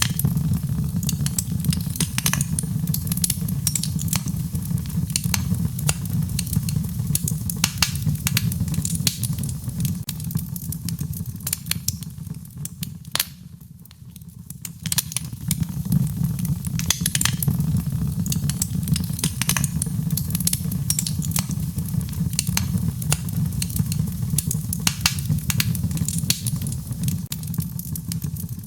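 Wood fire crackling with frequent sharp pops over a steady low rumble, mixed with rain. The whole sound dips down briefly about halfway through and then comes back.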